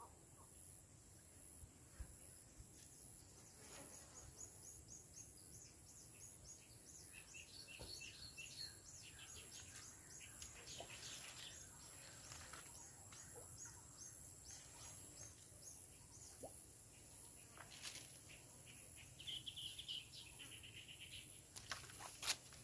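Quiet outdoor ambience with faint bird calls: runs of quick high chirps through the middle and a short high trill near the end, with a couple of sharp clicks.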